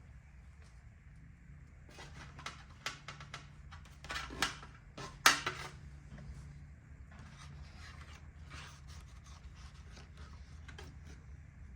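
Hand tools and small metal engine parts being handled during a teardown of a 50cc two-stroke motor: a run of sharp clicks and clinks about two seconds in, with one loud click near the middle, then lighter scattered clicks.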